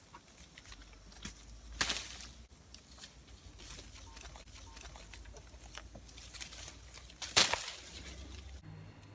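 Small handling noises: scattered light clicks and two louder short scraping rustles, about two seconds in and near the end, over a low steady hum.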